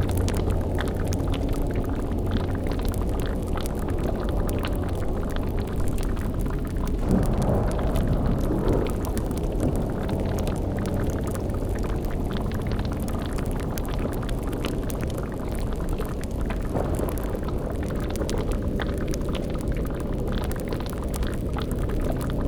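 Dark fantasy ambience: a deep, steady rumble under a bubbling, boiling cauldron, with fine crackling. A louder swell rises and fades about seven seconds in.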